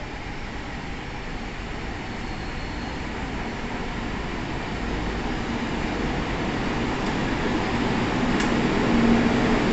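Tohoku Shinkansen E2 series train running, a steady rushing noise that grows louder throughout, with a low hum coming in near the end.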